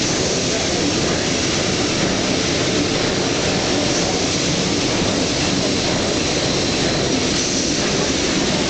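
Engine-room machinery running with a loud, steady roar.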